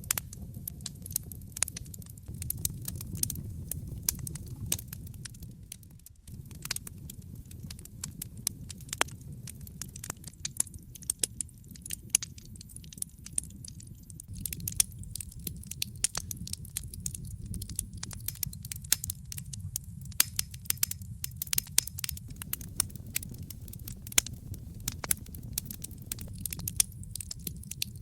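Wood fire burning in a fireplace: a steady low rumble of flames with dense, irregular sharp crackles and pops. The rumble briefly dips about six seconds in.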